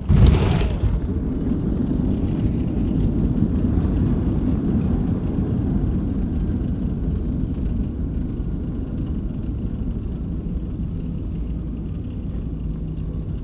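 Airliner on its landing roll, heard from inside the cabin: a sudden loud burst right at the start, then a heavy steady rumble that swells over the first few seconds and slowly eases as the aircraft slows.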